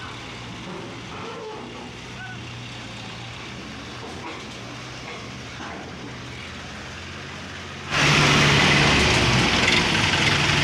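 Heavy diesel engine running steadily at low level, then suddenly much louder about eight seconds in as it is worked harder.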